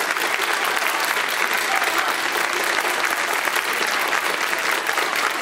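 Concert audience applauding steadily, a dense continuous clapping.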